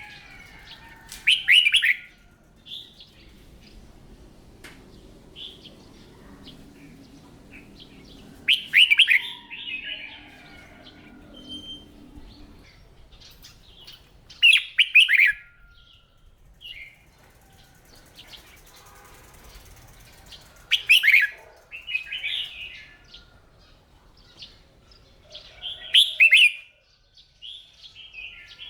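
Red-whiskered bulbul singing: five loud, short song phrases about every six seconds, with softer chirps in between.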